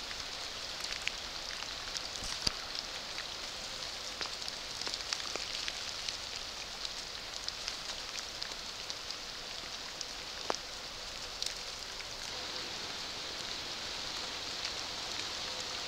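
Steady patter of rain falling on a creek's surface, a soft even hiss dotted with many small drop ticks and a few louder ones.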